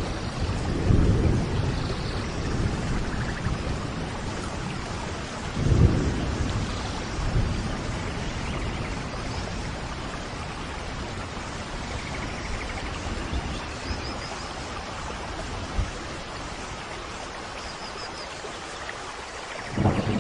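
Steady rain with rolling thunder, the rumbles swelling about a second in, around six seconds in, and again near the end.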